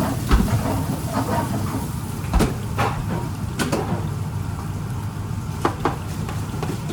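Busy kitchen work: a steady low machine hum, as of a kitchen extractor, under about six scattered knocks and clinks of utensils and dishes, two of them close together near the end.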